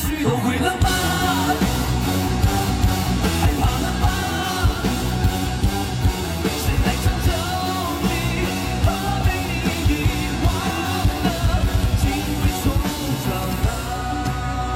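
Live rock band playing loud and fast, drums and electric guitars coming in together at the start, with shouted vocals.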